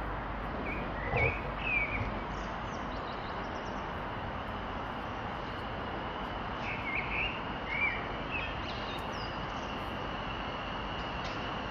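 Small birds chirping in short quick calls, in two bursts about a second in and again about seven seconds in, over a steady background noise.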